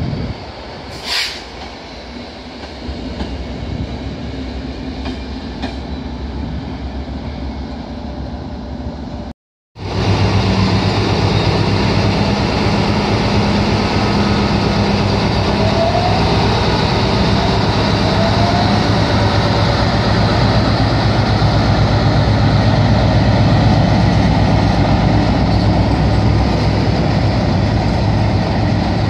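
Train noise at a station platform: a loco-hauled passenger set with a driving van trailer rolls past, with a brief hiss about a second in. After a sudden cut about a third of the way in, a Class 60 diesel freight locomotive passes close by with its engine running in a steady low drone, hauling a train of tank wagons, and this is the loudest part.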